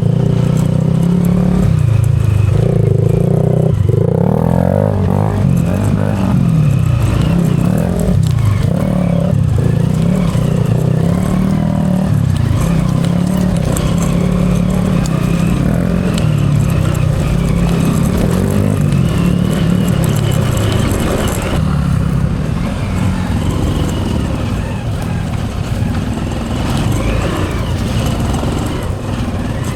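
Hero Impulse's 150 cc single-cylinder engine being ridden off-road, its pitch rising and falling as the throttle is worked, over low rumble from wind on the helmet camera.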